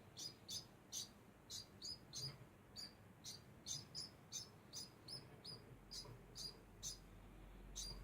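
Degu giving a steady series of short, high chirps, about two to three a second.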